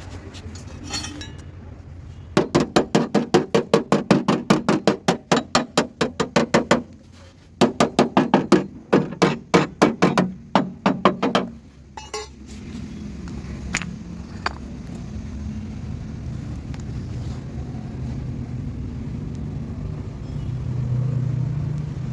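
Rapid hammering on metal, about six sharp blows a second, in two runs of four to five seconds each with a short pause between, then a steady low hum.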